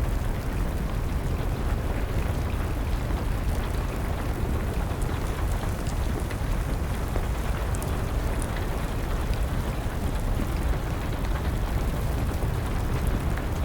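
Steady rain with a deep low rumble underneath, and a few faint, sharp crackles of a wood fire scattered through it.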